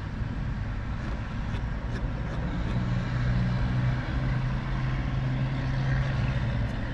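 Car engine idling, heard as a steady low hum from inside the car, with a few faint light clicks in the first couple of seconds.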